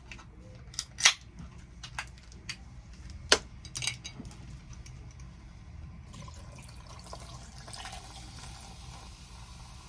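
A few sharp clicks and clinks of containers and utensils being handled, two of them loud, then a soft steady hiss from about six seconds in.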